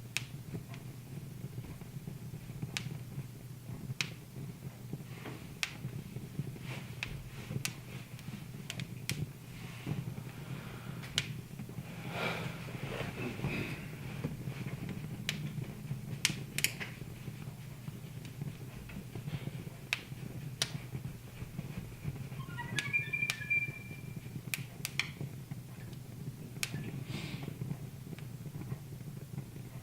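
Wood fire crackling in a fireplace, with irregular sharp pops and snaps over a steady low hum. A brief high whistle sounds about three-quarters of the way through.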